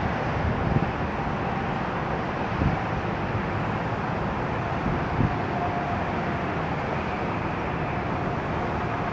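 Steady roar of distant jet aircraft with a faint, steady whine, and a few low thumps of wind buffeting the microphone.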